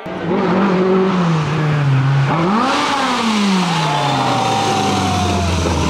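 Competition car engine, its pitch falling, then a quick rise and fall about two and a half seconds in, then easing down to a low, steady run near the end.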